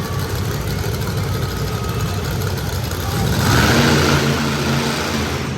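Monster truck engine running, then revving up loud about three seconds in and holding a steady high note.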